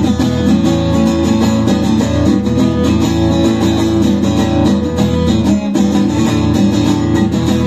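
Live band playing the instrumental intro of a song, with strummed guitars over a steady full-band backing.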